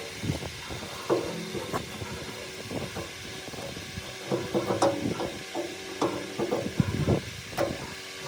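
Irregular knocks and clatter of hand work, some strokes in quick clusters, over a faint steady hum.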